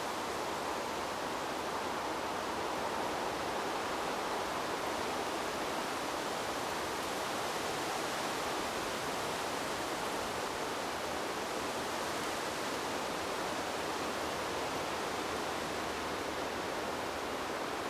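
Wind blowing through trees: a steady, even rushing noise with no gusts or swells.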